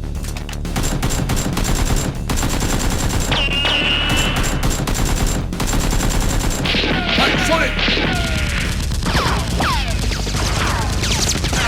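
Rapid gunfire in long, dense volleys, like automatic weapons firing, with overlapping shots throughout.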